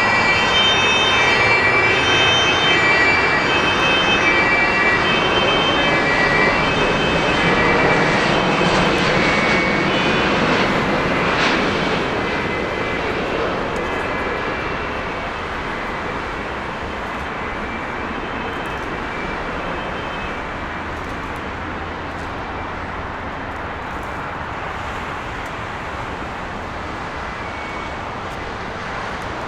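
Turbofan engines of a jet airliner passing close by: a loud roar with a high whine that peaks about twelve seconds in, then fades as the aircraft moves away.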